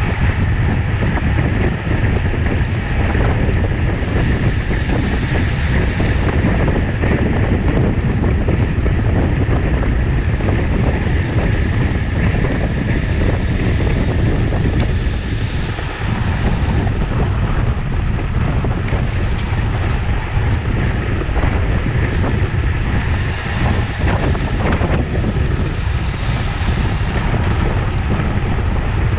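Steady, loud wind buffeting the camera microphone of a road bike ridden at racing speed.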